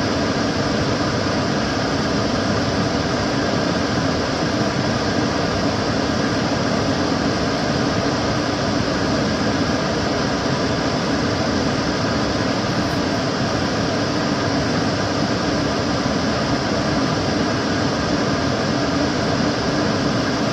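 Kitchen cooker hood extractor fan running, a steady rushing of air with a low hum and no change in speed.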